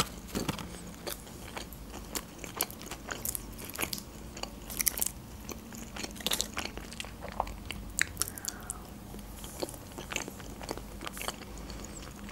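Close-miked eating: a bite into a flatbread doner wrap and then chewing, with irregular crisp crunches and small wet mouth clicks.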